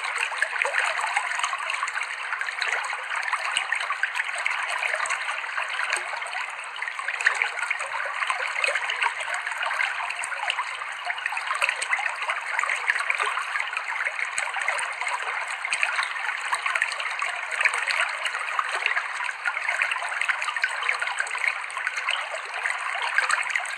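Clear stream water flowing and babbling over rocks, a steady, even rush with fine bubbling detail.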